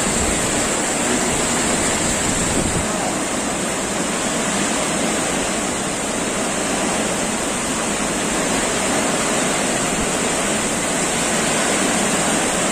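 Heavy rain falling in strong wind: a steady, dense hiss that holds even throughout.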